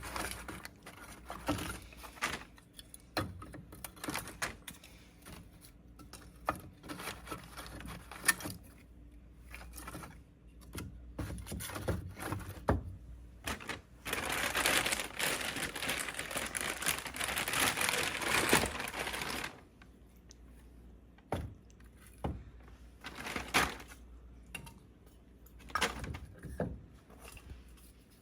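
Small sticks of kindling and split firewood being set into a pile in a fireplace, knocking and clattering against each other in irregular clicks. About halfway through there is a few seconds of rustling, like paper or dry wood being handled.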